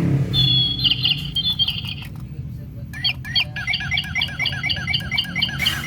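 Toy bird chirping: a high, warbling trill for the first couple of seconds, then, after a short gap, a quick regular run of falling chirps, about four a second.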